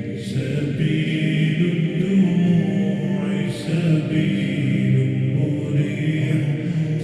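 Slowed, reverb-heavy nasheed: sustained, chant-like male voices humming or holding long notes, with no instruments.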